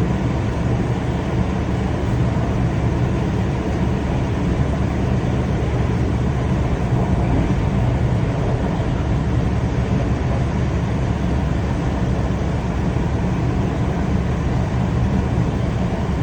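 Train running along the track, a steady low rumble with even noise above it.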